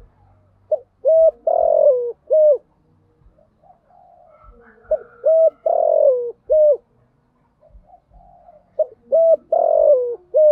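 Spotted dove cooing: three phrases about four seconds apart, each of two short coos, a longer coo that falls in pitch, then a final short coo.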